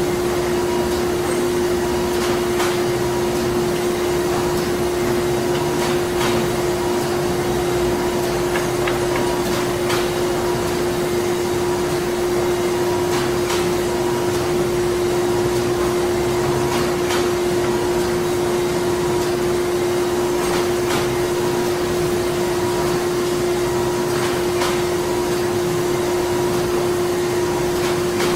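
Printing factory machinery running: a steady, loud mechanical hum with a strong steady tone through it, and a light click about every three to four seconds.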